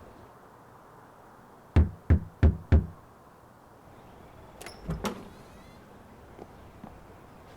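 Four quick knocks on a door, evenly spaced about a third of a second apart, followed a couple of seconds later by a few lighter clunks, like a door being handled and opened.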